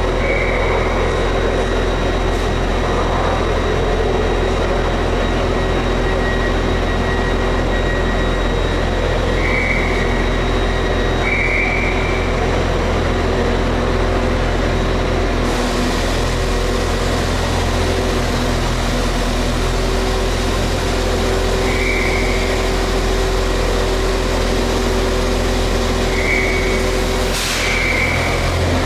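A train standing at a station platform with its engine idling: a steady low hum. The hiss grows about halfway through, and there is a brief hiss of air near the end.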